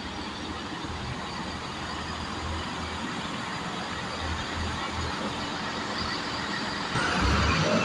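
Diesel multiple unit running at the station, its engine sound slowly growing louder and then stepping up sharply about seven seconds in.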